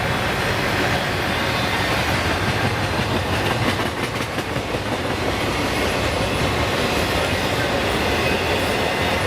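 CSX freight train cars rolling past, wheels clacking over the rail joints over a steady rumble.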